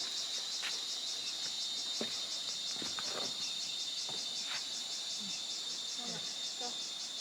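Insect chorus trilling with a rapid, even pulse, high and steady, with a few faint knocks scattered through it.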